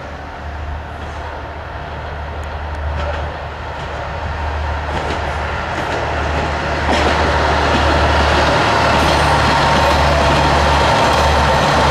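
Isumi 200'-series diesel railcars running, a steady low engine drone with track and running noise that grows louder over the first seven seconds or so and then holds steady.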